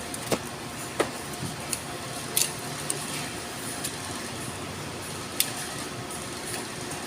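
Several sharp clicks and knocks at irregular intervals, about six in all, over a steady background noise, typical of tools and metal parts being handled during a repair.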